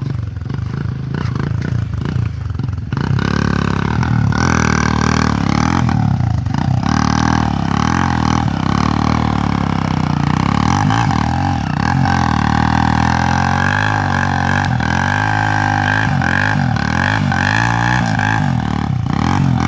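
Motorcycle engine running loudly and being revved, its pitch rising and falling repeatedly. It gets louder about three seconds in.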